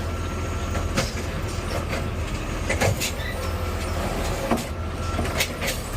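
Garbage truck engine running with a steady low drone, with a few short knocks and rattles scattered through it.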